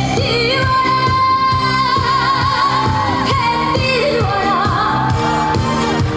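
Live trot song: a woman sings over a backing track with a steady beat, holding a long note that wavers with vibrato toward its end.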